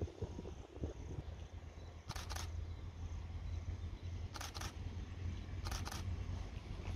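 Low rumble of an approaching track-recording train (KAUJR), growing slowly louder. Three short, sharp double clicks come at about two, four and a half and six seconds in.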